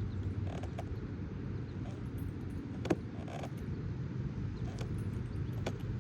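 Wind rumbling on the microphone, with scattered metallic clicks and creaks from a swing's chains in use, one sharp click about three seconds in.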